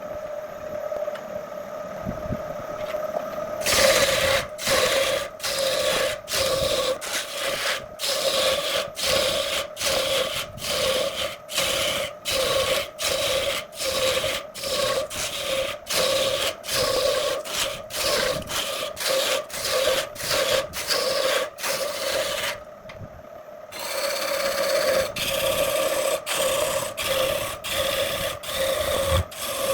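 An abrasive hand tool scraping back and forth on wood in regular strokes, a little under two a second, over a steady machine hum. The strokes begin a few seconds in and pause for about a second near three quarters of the way through.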